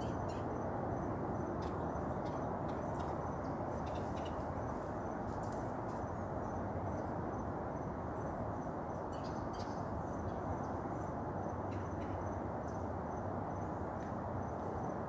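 Dawn outdoor ambience: insects trilling in a faint, pulsing high tone, with scattered short bird chirps, over a steady, even background hiss.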